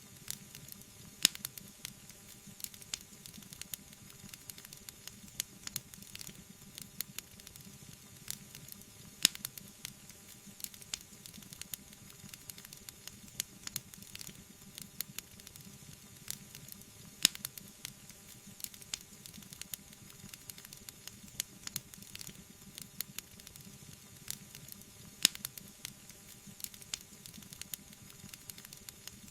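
Wood fire crackling: a soft steady hiss with many small, quick pops, and four sharper, louder pops about eight seconds apart.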